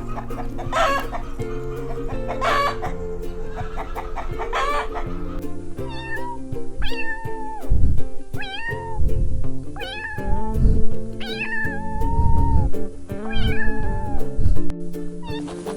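Domestic cat meowing repeatedly, about seven separate drawn-out meows in the second half, over steady background music; a few shorter calls come in the first few seconds.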